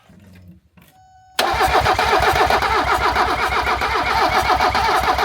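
Starter cranking the Mercedes OM617 five-cylinder turbodiesel, which turns over in an even, rhythmic chug without catching, beginning about a second and a half in. The engine is only just getting fuel after air was bled from the fuel system, so it smokes a little but does not fire.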